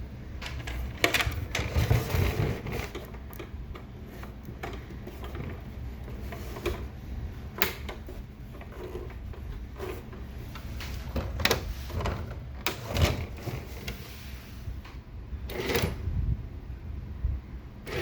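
Gemmy animated Halloween coffin prop clicking and knocking irregularly over a low hum, with no sound effects playing: its sound unit is faulty.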